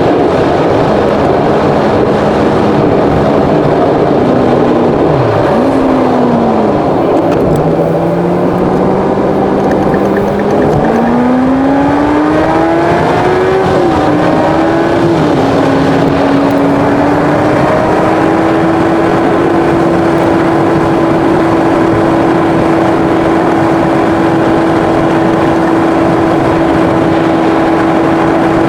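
Car engine and road noise while driving on an expressway. The engine note dips a few seconds in, climbs with a couple of gear changes, then holds steady at cruising speed over a constant rush of road and wind noise.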